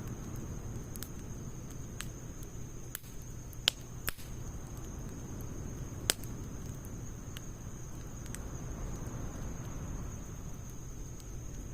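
Wood fire burning in a Snow Peak fire stand, a steady low rush broken by scattered sharp crackles, the loudest pops about four and six seconds in.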